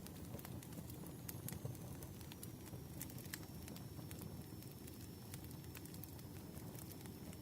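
Campfire crackling: a steady low rumble of burning wood with scattered, irregular sharp pops.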